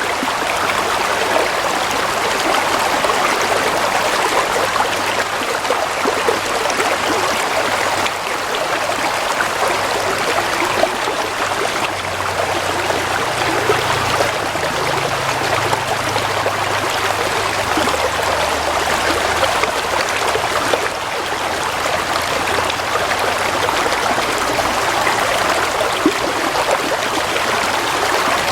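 Water flowing steadily over stones in a shallow stream, an even babble with small splashes and trickles throughout.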